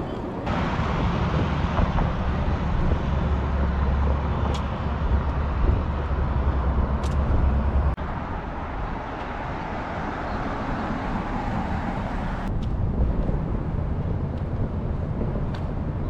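Passenger train running: steady rolling and rumbling noise, with a strong low hum for several seconds in the first half. The noise changes abruptly twice, about half a second in and again near the end.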